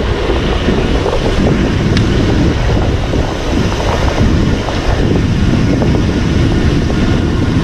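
Wind buffeting the microphone while riding an electric bicycle uphill: a loud, steady rumble.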